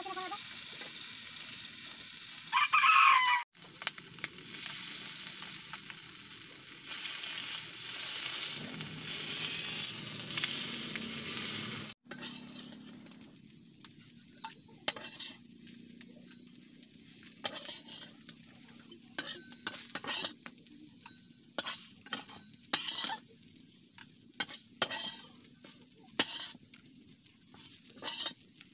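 Small fish sizzling as they fry in oil in a black iron kadai, with a flat metal spatula scraping and clicking against the pan as the fish are turned and lifted out. The loudest sound, about three seconds in, is a brief high-pitched call. After about twelve seconds the sizzling is quieter and the spatula clicks come often.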